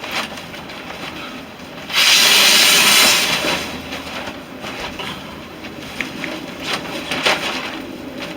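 A long breath blown into a smouldering tinder bundle of twigs and dry grass to coax the ember into flame, one rushing blow about two seconds in. Light crackles and clicks from the smouldering tinder come through around it.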